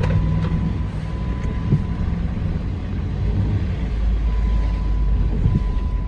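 2009 Jeep Commander's 5.7-litre Hemi V8 running steadily as the SUV drives through snow in four-wheel-drive low. It is a continuous low rumble, with a faint steady high tone over it.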